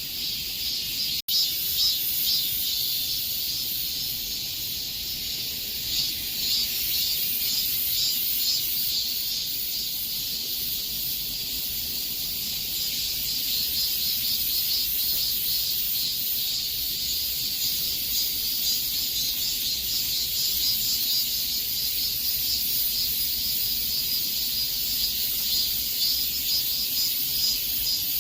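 Cicadas singing in a dense chorus: a steady high buzz with a fast, fluttering pulse. There is a split-second gap in the sound about a second in.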